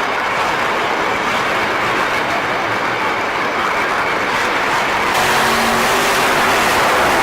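Monster trucks' supercharged V8 engines running loud, growing louder and brighter about five seconds in.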